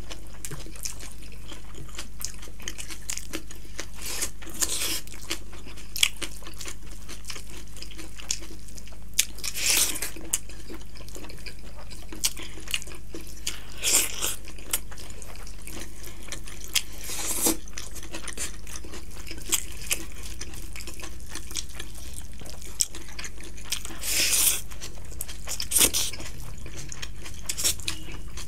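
Close-up eating sounds of rice and chicken curry being eaten by hand: wet chewing, squishing and clicking mouth noises, with a short louder smack or slurp every few seconds. A steady low hum runs underneath.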